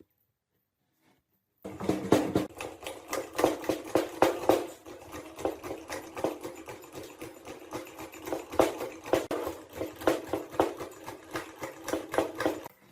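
Rapid, uneven strokes of hand-tool work on the jack's metal parts, several a second. They start abruptly about two seconds in and cut off just before the end.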